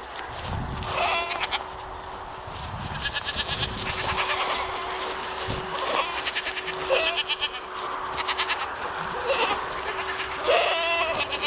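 Repeated short, quavering animal cries, about one or two a second, bleat-like.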